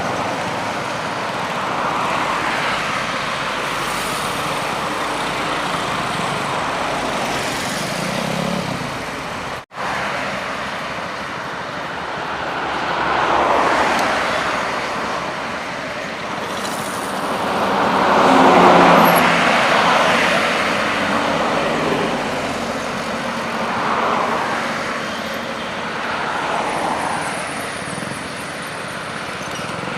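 Highway traffic: vehicles passing one after another, each swelling and fading, with the loudest going by about two-thirds of the way through. The sound cuts out for a split second about a third of the way in.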